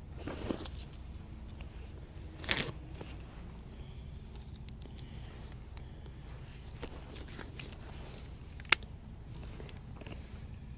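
Scattered scrapes and clicks of hand work with tools and materials over a low steady rumble, with a louder rasp a couple of seconds in and a single sharp click near the end.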